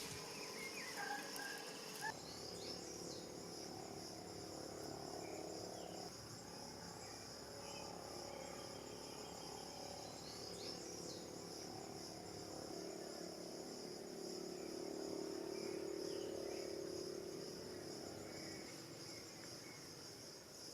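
Steady, high-pitched chorus of insects such as crickets. Short chirps come twice, and a faint low drone swells and fades about two-thirds of the way through.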